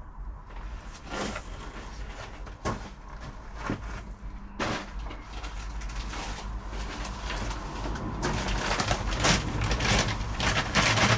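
Building sand being scraped and spread level: a gritty rubbing with a few sharper scrapes, getting busier and louder over the last few seconds.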